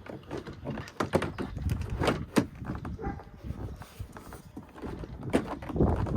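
Scattered clicks and knocks of a plastic door trim panel on a Volkswagen Passat B6 being handled and pressed onto the door, with a few louder knocks about a second in, around two seconds in and again near the end.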